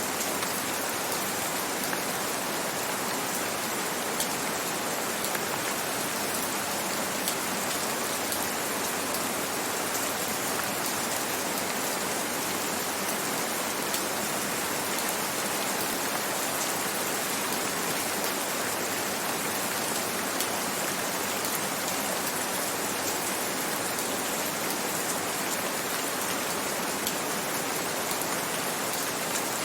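Steady, gentle rain falling in an even hiss, with scattered single drops ticking through it.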